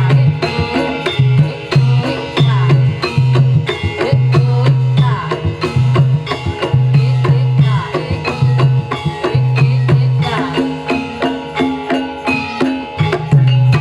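Javanese gamelan music for a jaranan horse-trance dance: kendang hand drums play a fast, driving rhythm of repeating deep strokes, over ringing metallophones.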